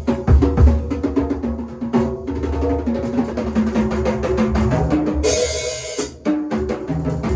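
Drum kit played in a fast run of strokes on the drums, with a cymbal crash about five seconds in.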